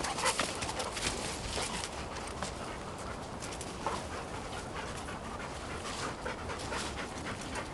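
Airedale terrier panting, with irregular short crackles and rustles scattered through it.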